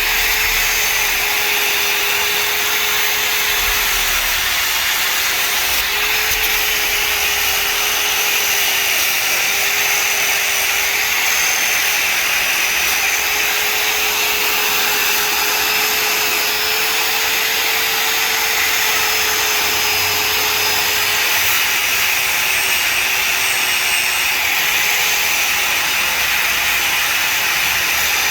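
Wagner PaintEater electric palm grinder running steadily, its abrasive disc grinding down a chewed dog chew bone. The motor's whine wavers slightly in pitch over a steady rasping hiss.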